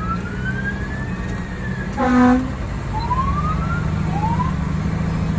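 Fire engine siren sliding up in pitch and back, then giving two shorter rising sweeps. A short loud horn blast comes about two seconds in. The truck's engine runs steadily underneath.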